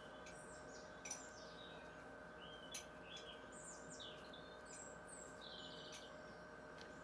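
Small birds chirping and twittering in short, quick phrases, with two sharp clicks about one and three seconds in, over a faint steady hum.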